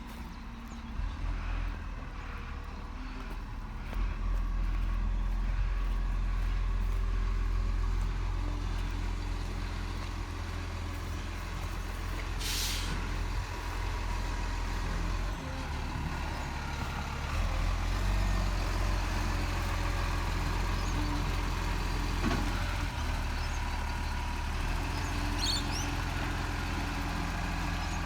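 Garbage truck engine running with a steady low rumble, growing louder about four seconds in. About halfway through comes a short hiss of air from the air brakes.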